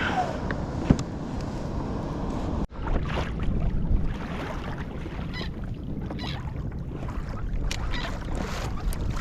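Water sloshing and splashing against a kayak hull, with wind on the microphone and a sharp knock about a second in. The sound breaks off abruptly partway through and resumes with irregular splashes.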